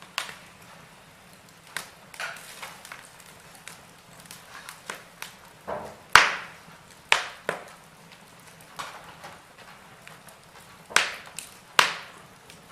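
Wood fire in a fireplace crackling: irregular sharp pops and snaps of burning logs over a soft hiss, the loudest pop about six seconds in and two more near the end.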